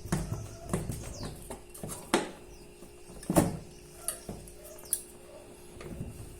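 Irregular metallic clunks and clinks as a washing machine's drive motor is worked loose and lifted out, about seven knocks spread over the seconds, with a faint steady hum underneath.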